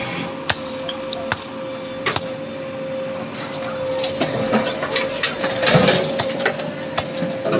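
JCB backhoe loader working, with a steady high hum under irregular sharp knocks, about one or two a second, from material and metal striking. The knocking is busiest past the middle.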